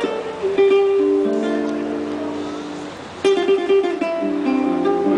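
Acoustic guitar played solo: a quick run of plucked notes, then several notes left ringing, and a fresh burst of fast picked notes about three seconds in that settles into ringing chords.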